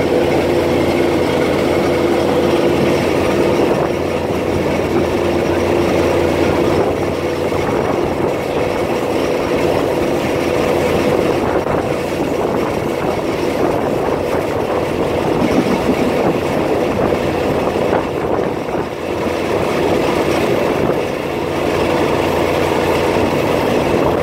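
Steady running noise of a diesel train heard from aboard, with a constant engine hum under the rail and wheel noise.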